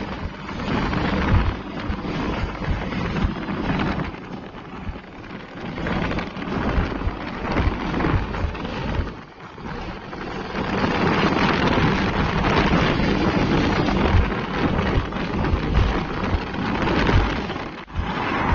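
Road noise from heavy trucks on a highway, a continuous rumbling roar with wind buffeting the microphone in gusts.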